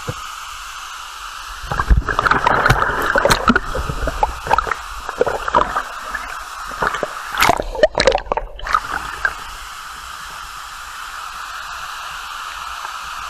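Waterfall water rushing steadily, with irregular splashing and sloshing between about 2 and 9 seconds in.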